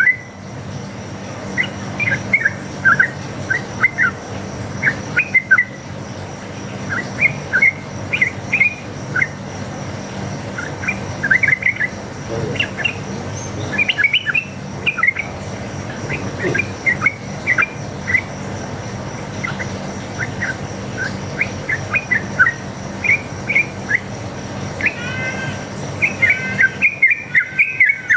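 Yellow-vented bulbul (trucuk) singing: scattered phrases of short, quick chirping notes that come faster and denser near the end, over a steady low hum.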